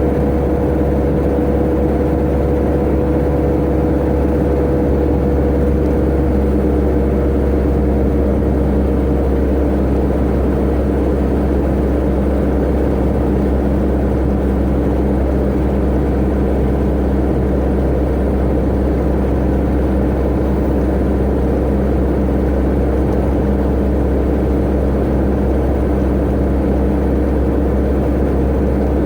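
Tata Ace mini truck's engine running steadily at highway speed with low road rumble. The engine note sags slightly over the first few seconds, then holds steady.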